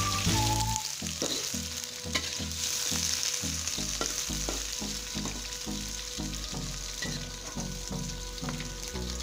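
Onion rings, shallots and garlic sizzling in hot oil in a metal wok, with a metal spatula scraping and clicking against the pan as they are stirred. A soft music beat pulses underneath.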